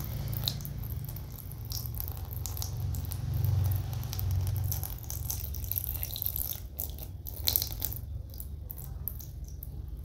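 A thin stream of water trickling and splashing into a small plastic tray, over a steady low rumble. The splashing is irregular and thins out near the end.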